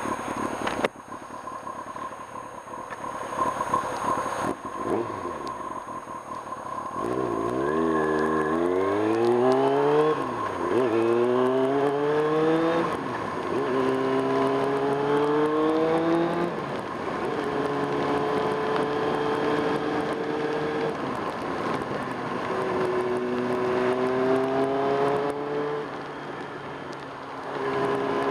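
1995 Kawasaki Ninja ZX-6R's inline-four engine heard from the bike while riding. After several seconds of mostly wind and road noise, it accelerates up through the gears, its pitch climbing and dropping at each shift about three times, then cruises steadily before pulling hard again near the end.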